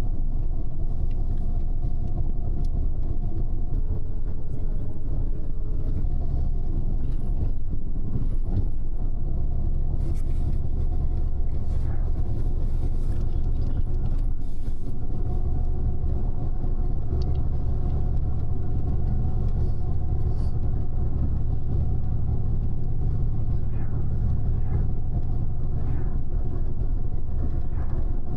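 Double-decker bus in motion, heard from inside the upper deck: a steady low engine and road rumble with a faint steady tone above it and occasional light rattles.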